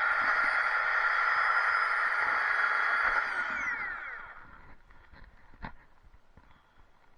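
Chainsaw running at a steady high whine for about three seconds, then winding down in pitch and stopping as it is shut off. A single knock follows a little later.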